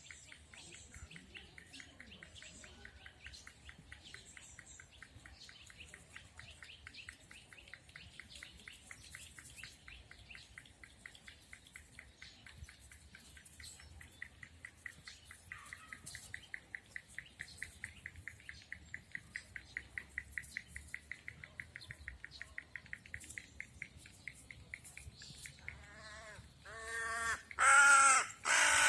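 Songbirds chirping, with a long run of quick, evenly repeated chirps at about five a second through the middle. Near the end a crow caws loudly several times.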